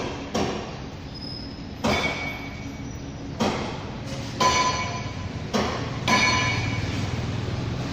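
Metal clanks: about six sharp strikes at uneven intervals, several leaving a brief bell-like ring, as metal tools or engine parts are struck or knocked together.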